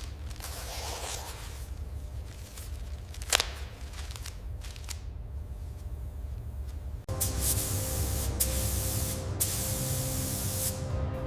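A low hum with a few clicks and one sharp click about three seconds in, then a steady spraying hiss that starts suddenly about seven seconds in and keeps going.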